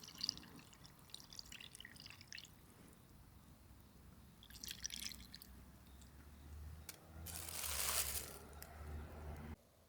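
Liquid dripping and splashing in small spurts, then a longer, louder pour about seven seconds in. It cuts off abruptly just before the end.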